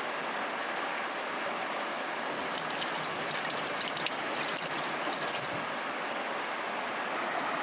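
River water flowing steadily, with a burst of rapid fine crackling clicks from about two and a half seconds in to about five and a half seconds in.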